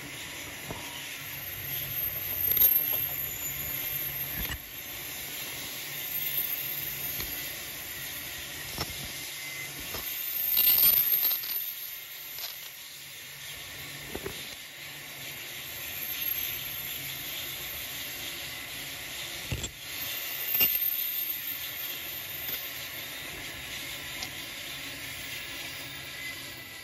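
Coal train hopper wagons rolling past on the rails: a steady hissing rumble of steel wheels on track with a thin high squeal that comes and goes, a few sharp clacks, and swells in loudness about three seconds in, near the middle and about two-thirds of the way through.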